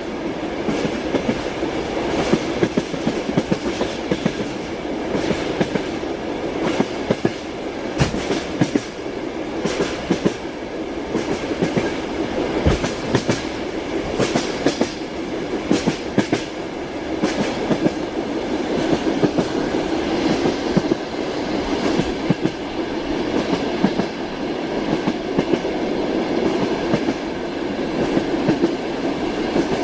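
Passenger train carriage running along the track: a continuous rumble with the clickety-clack of wheels over rail joints, heard as sharp knocks at irregular intervals.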